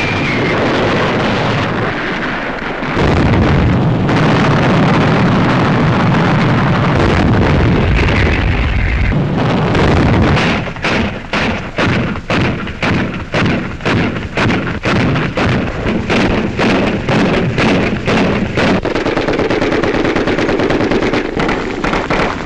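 Battle gunfire on a wartime newsreel soundtrack: a dense, continuous din of firing for the first half, then a steady run of separate shots, a little under two a second.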